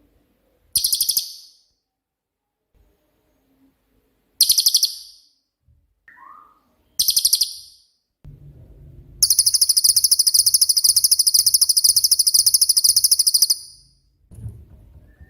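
Cililin singing: three short, very rapid high-pitched trills a few seconds apart, then one long trill of about four seconds.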